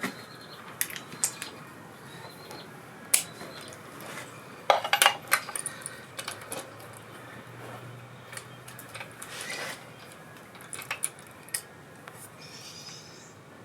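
Metal sockets and hand tools clinking and clattering as they are handled. Scattered sharp clicks, with a quick cluster of them about five seconds in.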